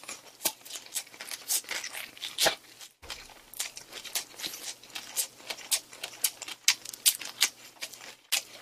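Close-miked chewing of a mouthful of spicy pork gimbap: wet mouth smacks and clicks at about two a second.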